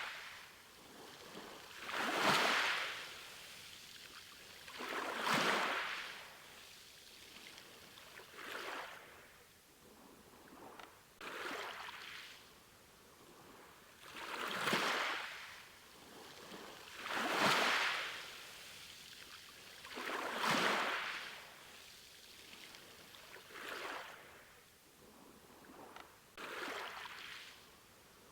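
Ocean waves, each one swelling and fading away, a new wave about every three seconds.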